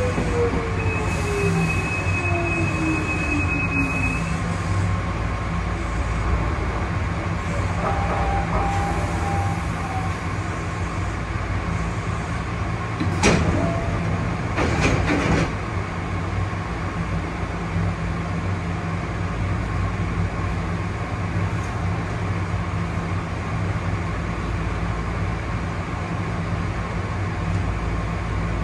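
Hankyu 5100 series electric train standing at a station, heard from the cab: a steady hum of on-board equipment. A falling tone runs through the first few seconds, and two short loud bursts come about halfway through.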